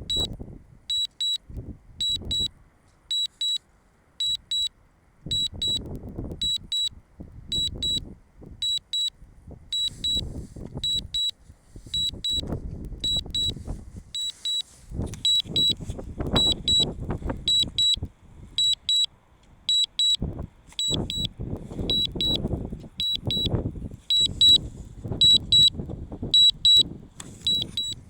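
Drone remote controller's warning beep sounding in quick pairs, about one pair a second, the alert for the Mavic Mini's low battery and return-to-home. Irregular wind buffeting on the microphone rumbles underneath.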